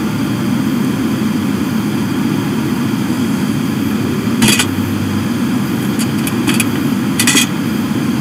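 Car engine and cabin drone heard from inside a slowly moving car: a steady low hum, with a few short clicks or rattles a little past the middle.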